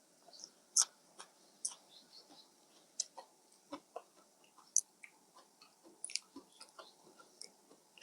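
Close-miked chewing of rice noodles in curry sauce: wet mouth smacks and clicks at an irregular pace, one or two a second.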